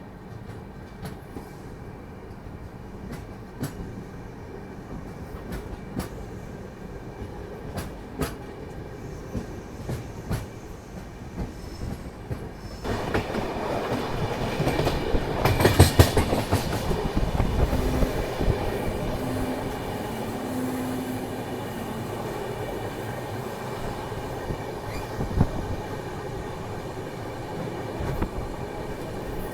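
Express train running at speed, its wheels clicking over rail joints under a steady rumble. About halfway through the rumble grows suddenly louder, peaks briefly a few seconds later, then stays at the higher level.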